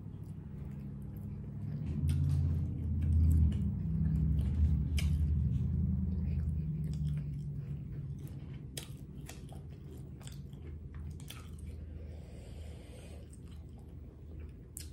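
Close-miked chewing of a saucy buffalo boneless chicken wing, with wet mouth clicks. The chewing is loudest from about two seconds in and eases off in the second half.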